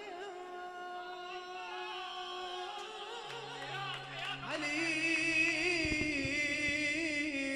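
Music: a singer holding long, wavering melismatic notes over a steady sustained accompaniment, in the style of an Iraqi devotional song.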